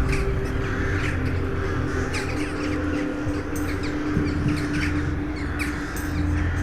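A large flock of birds calling at once, many short harsh calls overlapping without a break, over a steady low hum.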